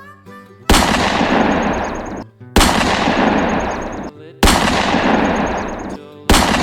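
Four loud blasts of a gunfire sound effect, about two seconds apart, each starting suddenly and fading over about a second and a half, with a fast rattle running through each one.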